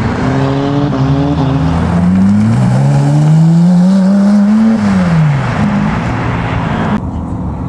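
Modified car accelerating hard away, its engine note climbing in short steps through quick gear changes, then rising in one long pull before falling away about five seconds in.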